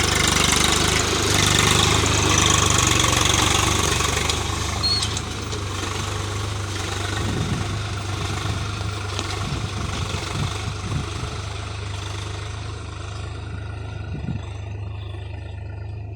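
Swaraj 735 FE tractor's three-cylinder diesel engine running steadily. It is louder, with more rattle and hiss on top, for about the first four seconds, then settles to a quieter, even run.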